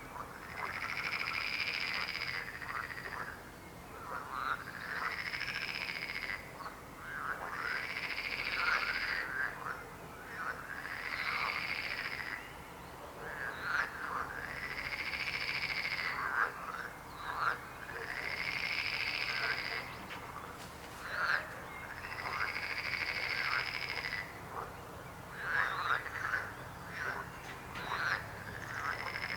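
Frogs croaking in chorus: a long rolling call repeats about every three seconds, with shorter croaks in between that grow busier near the end.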